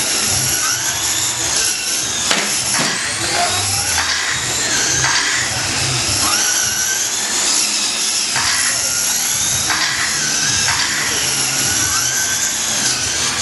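Several radio-controlled short course trucks racing: the high whine of their motors rises and falls over and over as they accelerate and brake around the track, over a steady bed of noise.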